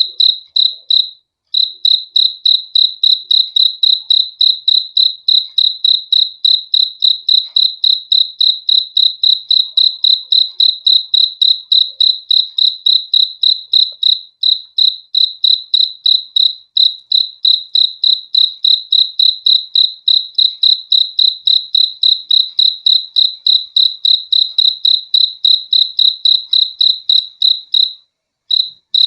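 A cricket chirping in a steady, high-pitched rhythm of about four chirps a second, with short breaks about a second in and near the end.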